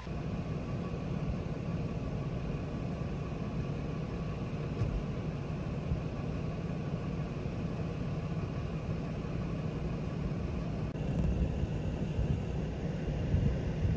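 Steady low rumble of a vehicle engine idling, heard from inside a car.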